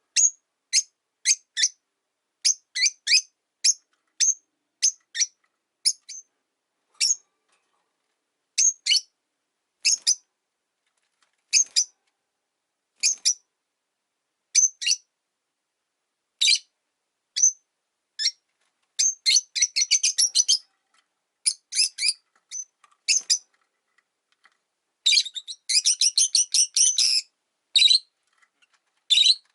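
Rosy-faced lovebirds chirping: short, sharp, high calls repeated every half second to a second. They break into rapid chattering runs about two-thirds of the way through and again near the end.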